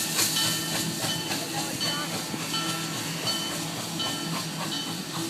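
Passenger train cars rolling past close by: a steady rushing rail noise with frequent wheel clicks over the track and many short, high-pitched wheel squeaks.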